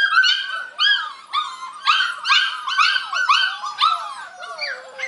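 A litter of puppies whining and yelping together, a string of overlapping high-pitched cries, each rising and falling: the puppies are hungry.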